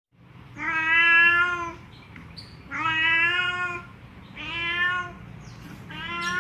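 Domestic cat meowing four times in long, drawn-out meows of about a second each, each held at a steady pitch.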